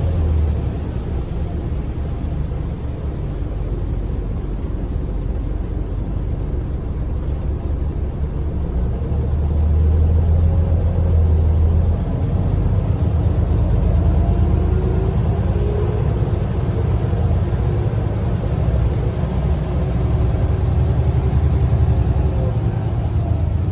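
Scania L94UB bus's diesel engine running as the bus drives, a steady low drone with faint whines that rise and fall in pitch. It grows louder for a couple of seconds about ten seconds in.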